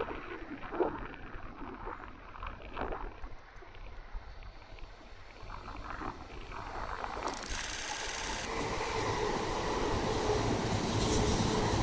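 A train approaches, its running noise growing steadily louder through the second half, with a steady hum rising out of it near the end. A few short faint sounds come before it.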